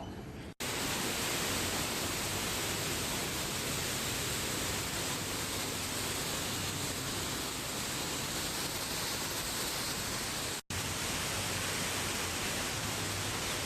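Steady, even rushing noise with no pitch, cut off abruptly twice for an instant.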